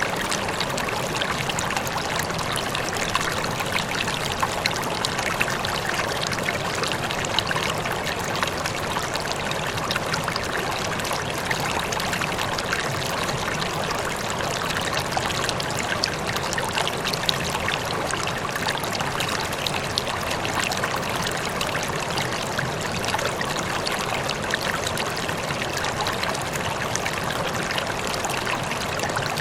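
Running water flowing steadily and evenly, with many small splashes and no break or change.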